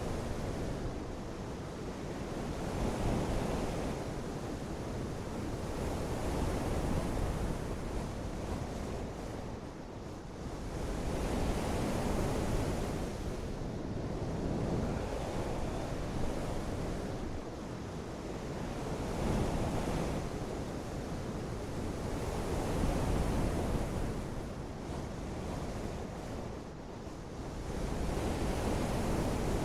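Steady rushing noise of falling water, swelling and easing every few seconds, like rain blown in gusts.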